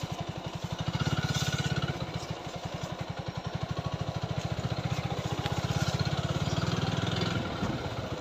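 TVS Apache 4V motorcycle's single-cylinder engine running at low revs with a fast, even thudding beat, swelling a little about a second in and again later on.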